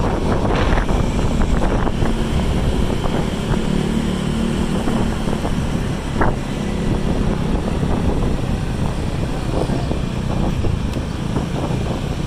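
Vehicle running, with steady road and wind noise buffeting the microphone and a single sharp click about six seconds in.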